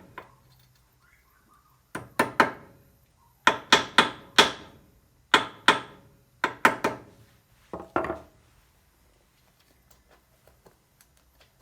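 Sharp tapping knocks of a hand tool on a small split pin and wheel axle, as the pin is straightened and worked through its hole. The taps come in quick groups of two to four, six groups over about eight seconds, then stop.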